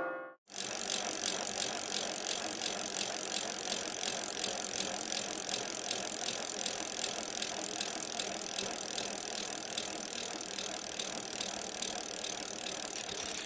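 Bicycle sound effect: a bicycle rolling along with a steady, rapid mechanical ticking and rattle. It starts about half a second in and cuts off abruptly near the end.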